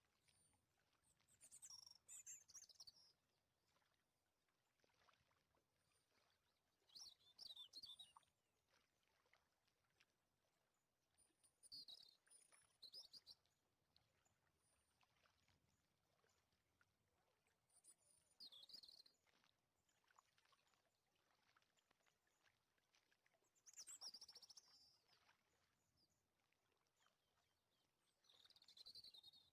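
Near silence broken by faint, high-pitched warbling chirps, one short burst about every five seconds.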